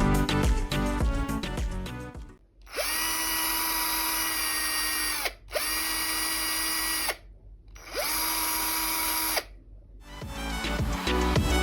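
18 V cordless drill, running on a replacement 5S lithium-ion pack, triggered three times. Each time its motor spins up quickly to a steady whine for about two seconds, then stops. Background music plays before the first run and after the last.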